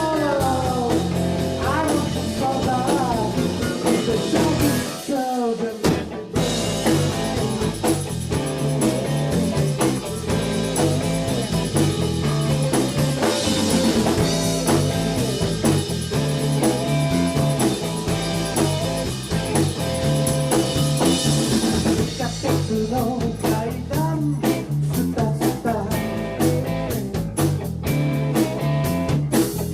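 Live blues-rock band playing, with electric guitar, bass and a drum kit. The bass and drums drop out briefly about five seconds in, then the band comes back in.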